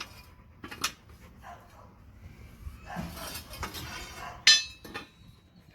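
Separated steel leaf spring leaves clinking and scraping as they are handled, with a sharp metal clank about four and a half seconds in, the loudest sound.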